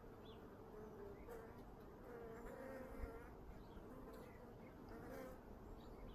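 Honeybees buzzing around an open hive as its frames are inspected: a faint, steady, slightly wavering hum. A single soft knock sounds about halfway through.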